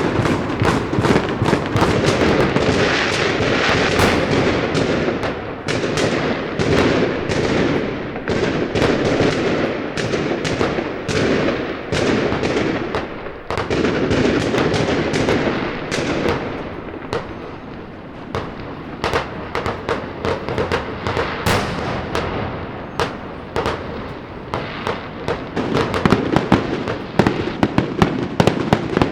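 Fireworks and firecrackers going off in a dense, near-continuous crackle of many bangs. Toward the end they thin out into more distinct, separate sharp bangs.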